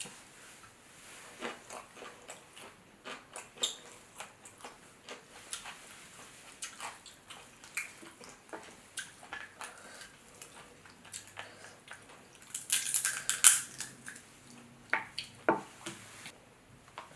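Crab shells being cracked and picked apart by hand: scattered sharp cracks and clicks, with a longer, louder stretch of crunching about two-thirds of the way through.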